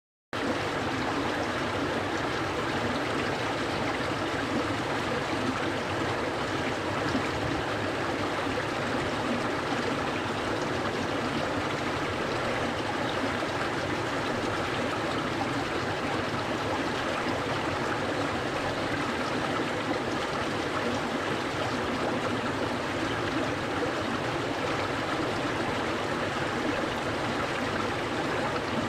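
A clear, cold-water stream flowing, with a steady rush and babble of running water.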